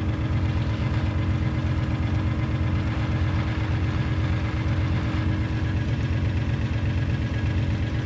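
Engine of a farm vehicle running steadily at low speed, with an even, rapid firing beat.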